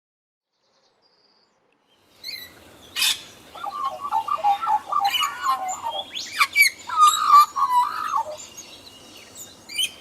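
Bird calling: a busy run of short chirps and warbling notes, with a few sharper, higher squeaks mixed in, starting about two seconds in.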